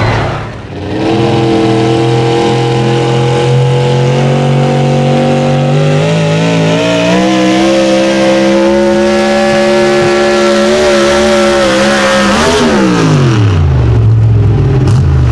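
High-powered pulling tractor's engine running hard under load, its pitch climbing slowly, then falling steeply about twelve seconds in as the revs drop.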